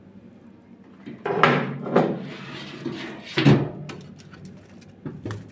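Split firewood being set down and stacked: two wooden knocks with scraping, one about a second and a half in and one about three and a half seconds in, with lighter taps and rubbing between them.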